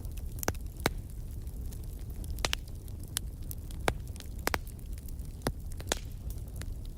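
Wood fire burning in a fireplace: a steady low rumble of flame with sharp, irregular crackles and pops from the burning logs, about a dozen in the span, some of them loud.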